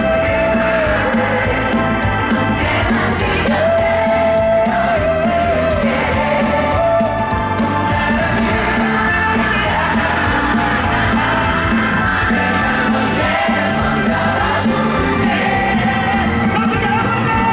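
Live pop music with singing: a vocal line held in long notes that bend in pitch, over a full band backing with a steady beat.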